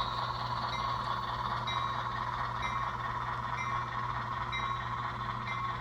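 HO-scale 44-tonner diesel switcher's sound decoder, a steady idling engine sound with its bell ringing, a short bright ding about once a second.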